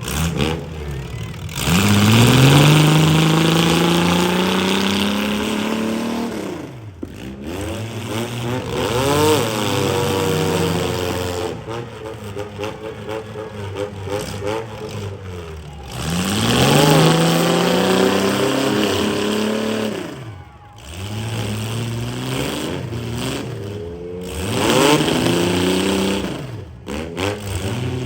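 Compact and midsize demolition-derby cars' engines revving hard, their pitch climbing again and again as the cars accelerate, with brief dips between the runs.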